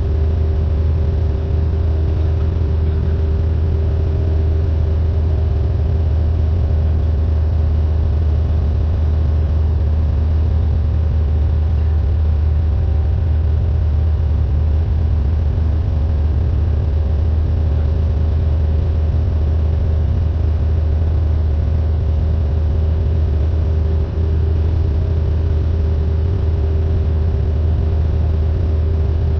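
Cabin drone of a Cessna 172N's four-cylinder Lycoming piston engine and propeller, running steadily in flight at constant power.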